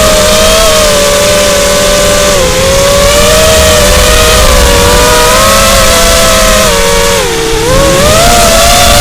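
Racing drone's electric motors whining in flight, several close pitches moving together as the throttle shifts. The pitch dips and climbs back about seven and a half seconds in.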